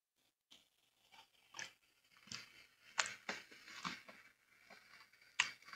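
Close-miked chewing of crunchy Cocoa Pebbles rice cereal: a run of short, irregular crunches through a headset's boom microphone near the mouth.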